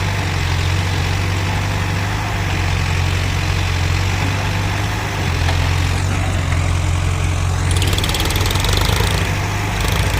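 Heavy diesel engine of earth-moving or loading machinery running steadily at a low, even note, its sound changing about eight seconds in.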